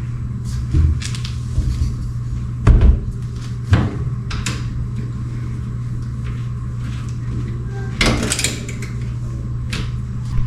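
A few sharp knocks and clacks from the metal return-air filter grille being handled and wiped, with a cluster of rattling clacks about eight seconds in, over a steady low hum.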